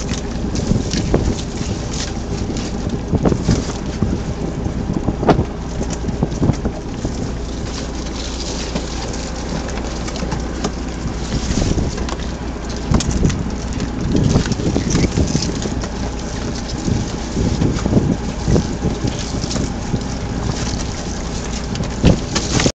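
Steady wind rumble buffeting the microphone, with irregular knocks and clicks scattered through it.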